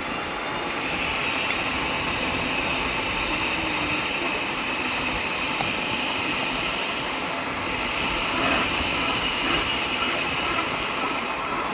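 Metalworking machine running steadily: a continuous mechanical noise with several steady high whining tones over it.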